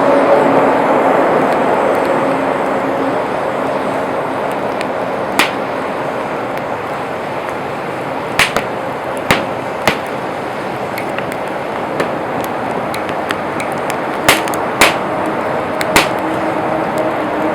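Wood campfire burning with a steady rushing hiss, broken by sharp crackling pops of the burning wood, about eight of them scattered through.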